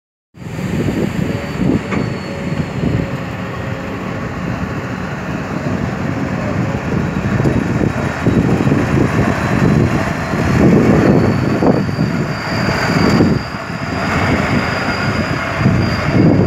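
Kobelco SK200 hydraulic excavator working loudly, its diesel engine surging and easing with the load as it digs, with a thin high whine over it.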